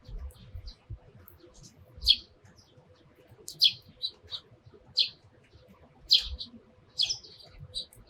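Sparrows chirping: a string of short, sharp chirps, the louder ones coming about once a second, with a few faint low thumps among them.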